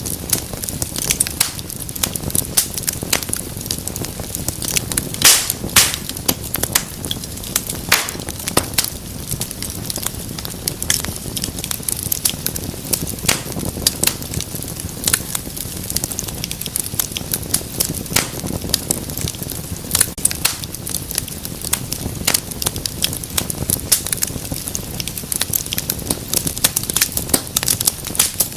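Wood fire crackling steadily, with dense sharp snaps and occasional louder pops over a low rumble of flame.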